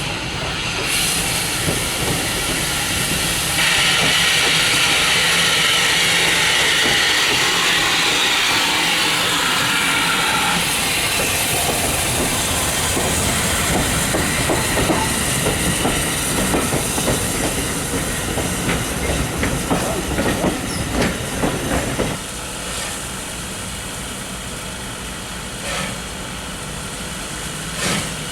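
Steam train passing: a loud steam hiss for several seconds, then a fast clickety-clack of carriage wheels over rail joints that stops abruptly about three-quarters of the way through, leaving a quieter steady rumble.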